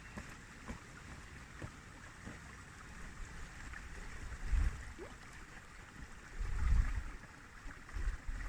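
Faint, steady rush of flowing river water, with low rumbling gusts of wind on the microphone about four and a half seconds in and again near the end.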